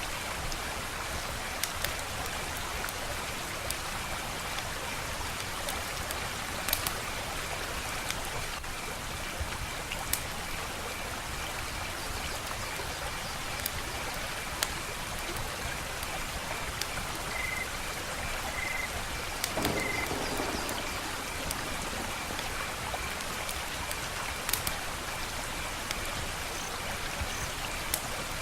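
Wood fire burning with a steady hiss and sharp crackling pops every few seconds.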